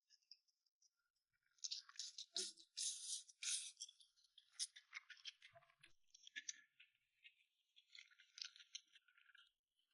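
Faint, close-miked eating sounds: a run of soft, crackly clicks and smacks of chewing, with a denser stretch a couple of seconds in and again towards the end.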